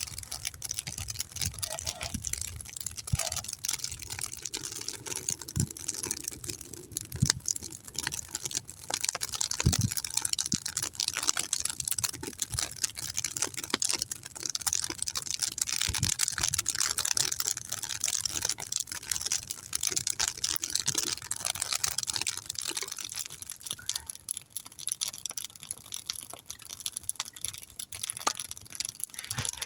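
Wood campfire crackling steadily, a dense run of small pops over a hiss, burning hard with a few louder snaps about ten and sixteen seconds in.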